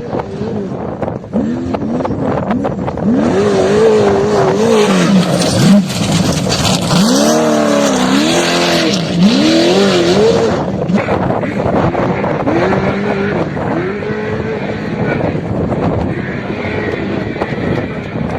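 Off-road vehicle engine revving up and down again and again, its pitch rising and falling. A loud rushing noise sits over it from about three seconds in to about ten.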